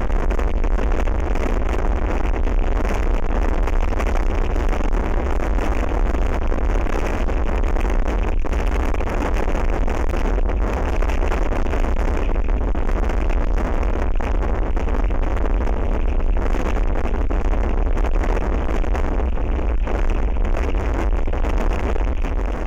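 Very strong wind buffeting the microphone: a loud, steady low rumble with a hiss above it.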